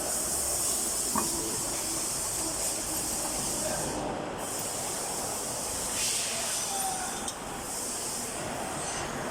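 Steady hissing noise from the workshop, with a faint click about a second in.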